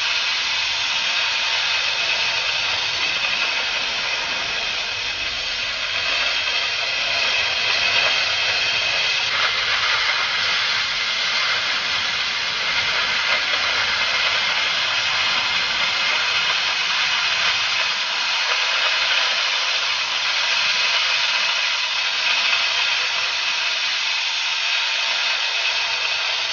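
Oxy-fuel cutting torch on a Huawei HK12 flame cutting carriage, its flame hissing steadily while it cuts.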